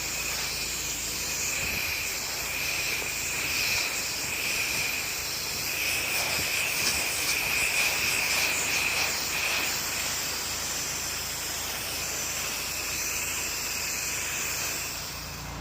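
Pressure washer wand spraying water in a steady hiss, a little louder for a few seconds in the middle, easing off near the end.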